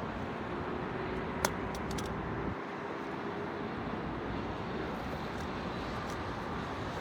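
Steady rumble of city traffic, with a faint engine hum in the first couple of seconds, a sharp click about a second and a half in and a few faint ticks after.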